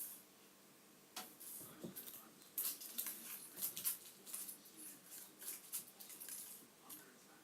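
Crinkly plastic wrapper rustling and crackling in quick, irregular bursts as a kitten pounces on it and bats it about.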